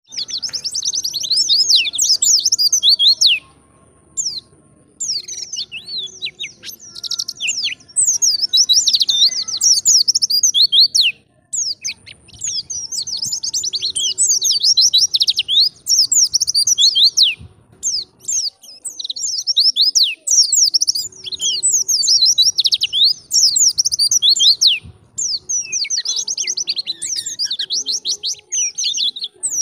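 Wild white-eye (pleci) singing vigorously: long runs of rapid, high-pitched chattering and twittering notes, in phrases broken by short pauses.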